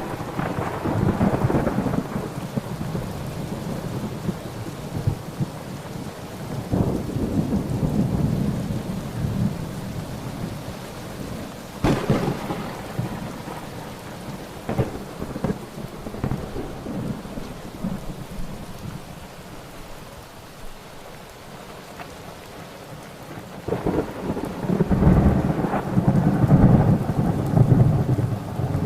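Thunderstorm: steady rain with rolling thunder. The rumbles swell at the start, again about a quarter of the way in, and loudest near the end, with sharp cracks about twelve and fifteen seconds in.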